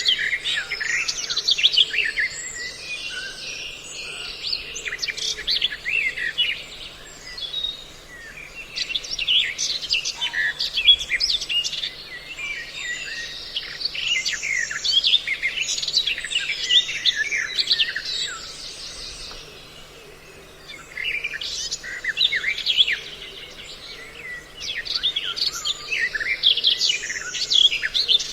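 Many birds chirping and calling in dense overlapping bursts, a mixed lure recording of chao chảo, trao trảo and hoành hoạch calls, with short lulls about eight and twenty seconds in. A faint steady low hum runs underneath.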